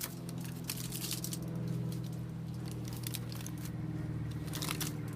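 Aluminium foil being unwrapped from a cooked meatloaf skewer, a run of quick crinkles and crackles, over a steady low hum.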